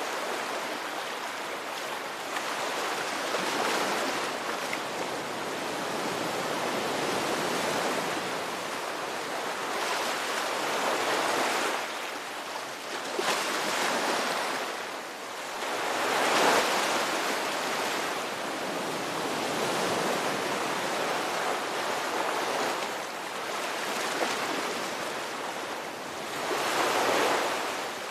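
Ocean surf: waves breaking and washing in as a steady rush that swells and ebbs every few seconds, with the strongest surges about halfway through and near the end.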